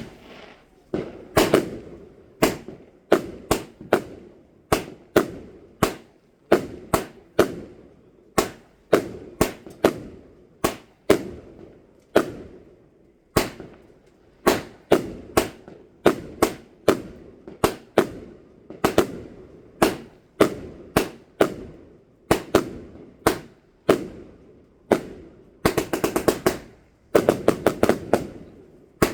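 Fireworks going off in a steady barrage: sharp bangs about one or two a second, each echoing away, with quick crackling volleys near the end.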